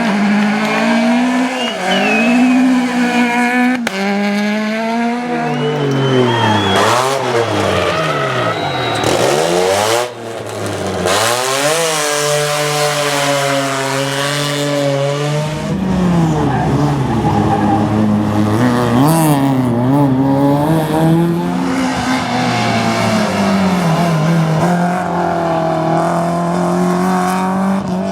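Rally cars at full effort on a stage, engines revving hard and dropping back through gear changes again and again. The sound changes abruptly about ten seconds in and again around fifteen seconds.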